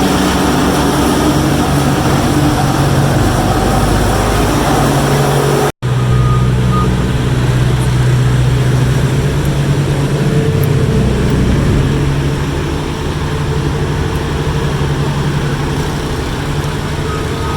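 Diesel engines of heavy asphalt paving equipment running steadily. The sound breaks off for an instant about six seconds in, and a backup alarm beeps near the end.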